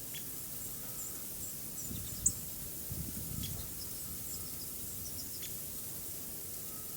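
Songbirds at a winter feeder giving scattered short, high chirps, with one sharper chirp about two seconds in, over a steady outdoor hiss.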